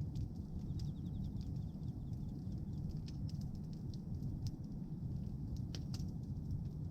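Bonfire of pruned tree branches crackling: scattered sharp pops over a steady low rumble, with a couple of louder pops near the end.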